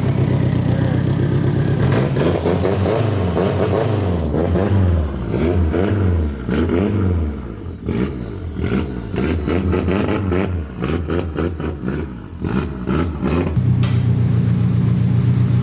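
Nissan 240SX's SR20 four-cylinder engine running, revved up and down repeatedly with rising and falling pitch, with a run of sharp clicks in the middle stretch, then settling back to a steady idle near the end.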